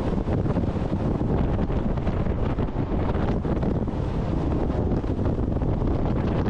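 Steady wind rumble buffeting the microphone aboard a jet boat running at speed, with the rush of the boat over the water underneath.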